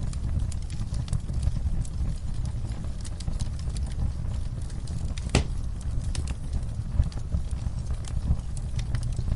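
Wood fire burning in a fireplace: a steady low rumble with irregular crackles and small pops, and one louder pop about five seconds in.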